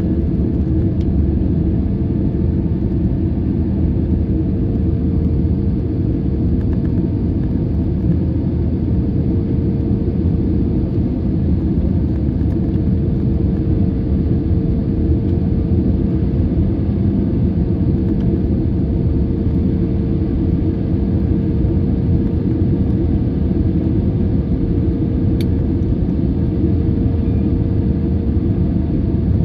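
Boeing 737-800 jet noise: a steady low rumble with a steady hum running through it.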